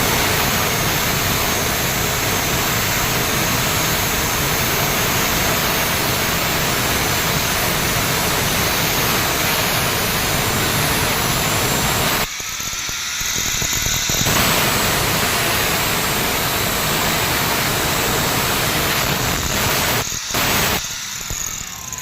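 Grinding wheel running with a steel drill bit held against it: a loud, steady, harsh grinding hiss. It breaks off for a couple of seconds about twelve seconds in and briefly again near the end.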